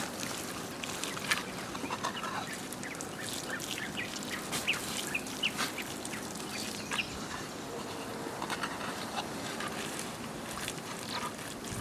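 Birds chirping in short repeated calls, with scattered small clicks over a steady background hiss.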